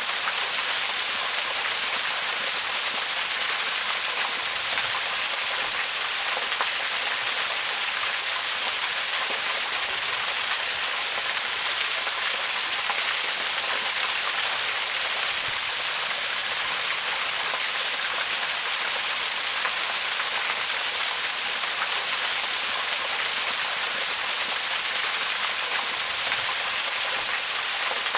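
Waterfall rushing steadily: an even, bright hiss of falling water and spray with little low rumble.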